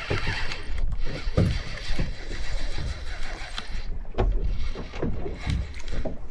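Sea water slapping and sloshing against the hull of a small fishing boat, with irregular knocks and thumps on the boat.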